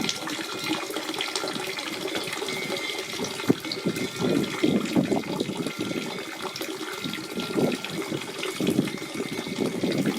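Spring water running and gurgling steadily, with irregular louder surges and small splashes.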